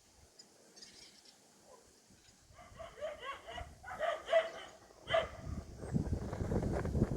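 An animal calling in a quick run of short, high cries, followed from about halfway by a low rumbling noise.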